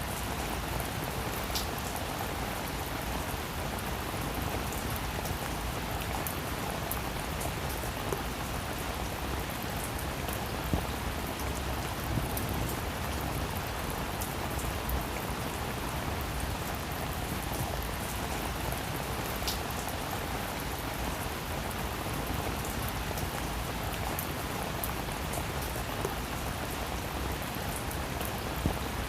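Steady rain falling on a roof, an even patter with many small drop hits scattered through it and a few sharper ones.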